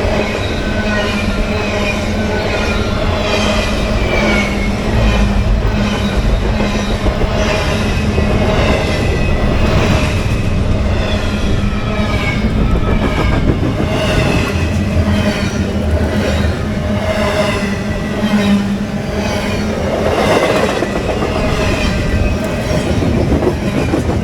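CSX freight train's cars rolling past close by: a steady heavy rumble with wheels clicking over rail joints again and again, and wavering high wheel squeals.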